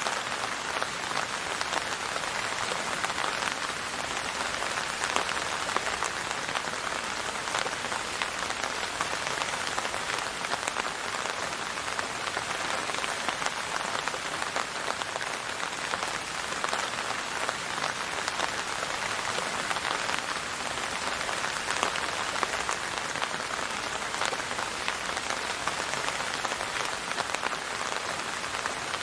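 Steady rainfall: a dense, even patter of drops hitting a surface.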